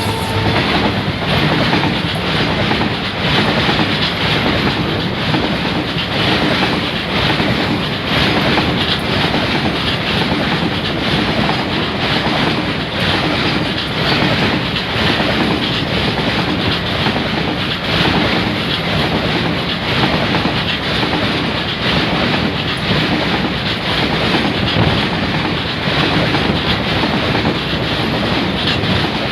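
Freight train of LPG tank wagons rolling past at steady speed, its steel wheels clacking rhythmically over the rail joints.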